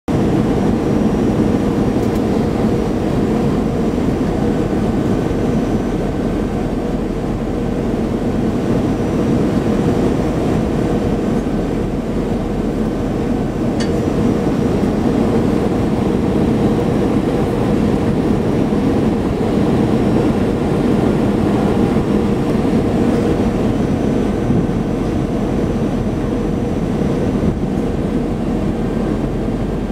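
Steady cabin noise inside an Airbus A321 airliner on approach: engine and airflow rush with a steady low hum.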